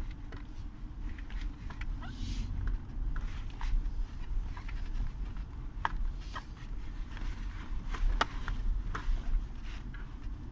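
2020 Subaru Forester's driver's seat creaking in short, irregular squeaks as the car rocks over a rough road, over the low rumble of the moving car heard inside the cabin.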